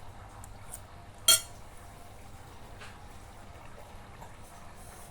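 A utensil clinks sharply once against a bowl about a second in, with a short ringing tone, among a few faint small clicks of eating.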